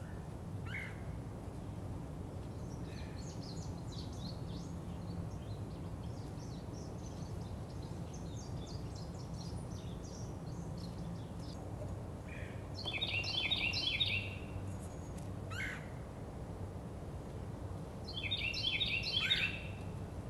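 Wild birds singing outdoors: scattered short chirps throughout, with two louder bursts of rapid trilled song about two-thirds of the way in and again near the end, over a steady low background hum.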